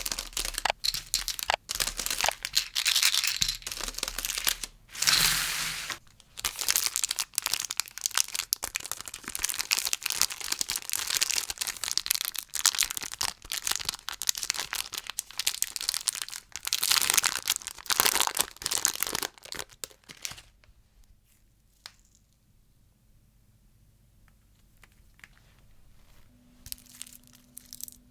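Plastic lollipop wrappers crinkling and tearing as they are opened: a dense run of crackles for about twenty seconds, then it drops away to a few faint crinkles, with a low steady hum starting near the end.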